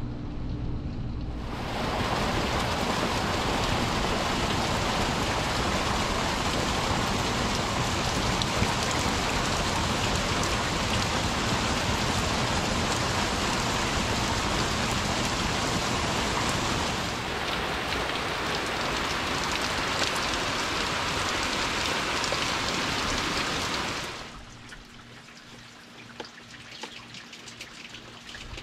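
Heavy rain pouring down in a steady, dense hiss that starts about a second and a half in. Near the end it gives way to a much quieter, lighter rain.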